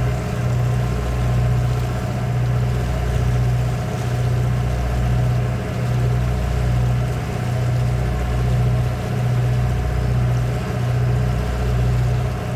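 Sightseeing boat's engine running steadily, heard from on board: a deep drone that swells and eases in a slow regular pulse, a little more than once a second.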